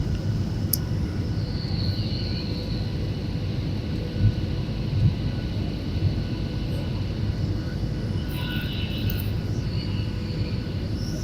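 Airliner cabin noise during an approach to land: a steady low rumble of engines and airflow, with a few thin steady whining tones over it.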